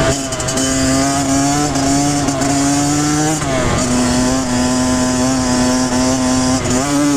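Kawasaki KX100 two-stroke single-cylinder dirt bike engine running under steady throttle while riding. Its pitch drops about three and a half seconds in, holds steady again, then climbs near the end.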